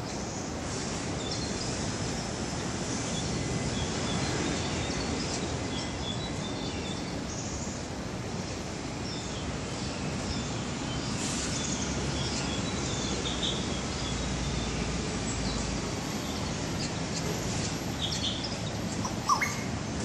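Small black birds tweeting in short, scattered high chirps over a steady low background rumble, with one louder short rising note near the end.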